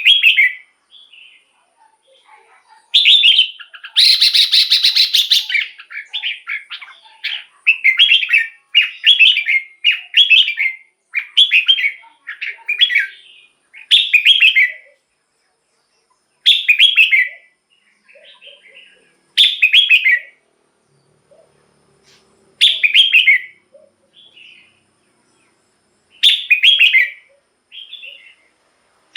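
Red-whiskered bulbul singing: short, bright whistled phrases, close together in the first half and then about every three seconds. A harsh rattling burst comes about four seconds in.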